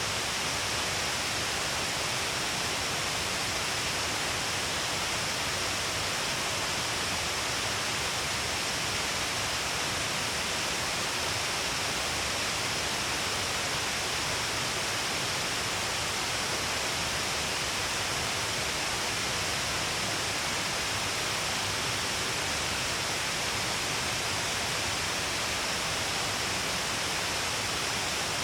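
Shiraito Falls, many streams of water pouring all along a cliff face in heavy flow, making a steady, unbroken rush with a strong hiss and no changes.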